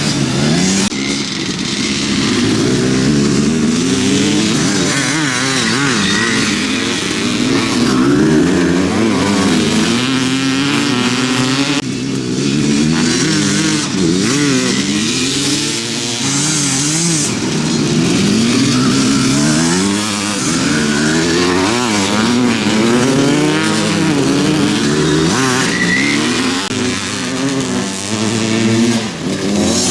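Several motocross bikes racing, their engines revving up and down through the gears and overlapping one another without a break.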